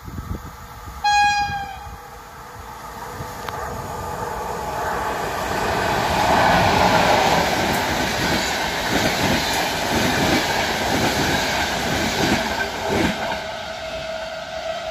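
A single short train horn blast about a second in. Then an ED250 Pendolino high-speed electric train runs past the platform: the rush of the train builds to a peak and stays loud as the carriages go by.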